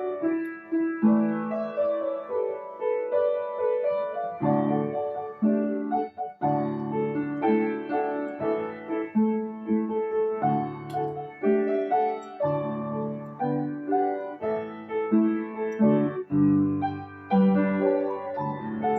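Piano accompaniment: chords played in a flowing pattern, with a short gap about six seconds in.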